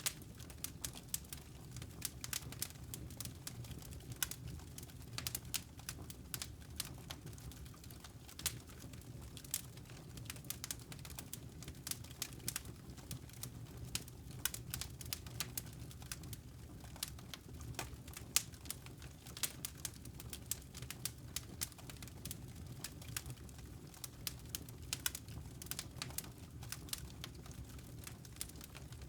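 Wood fire crackling in a fireplace: many irregular sharp pops and snaps over a low, steady rumble.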